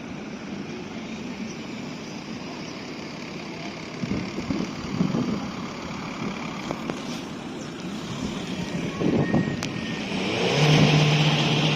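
Car engines running and passing, with a nearer car's engine getting louder and holding a steady note near the end.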